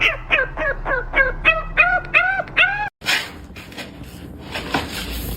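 An animal giving short, pitched calls in quick succession, each rising then falling, about three a second. After about three seconds the sound cuts off abruptly to a steady rushing noise.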